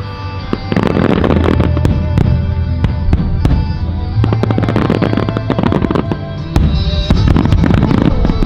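Fireworks going off in rapid succession, many bangs and crackles close together, with music playing.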